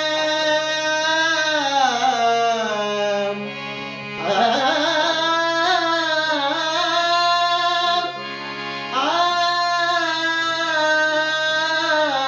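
A singer's wordless opening to a Marathi abhang: long held notes that slide and bend in three slow phrases, over a steady drone.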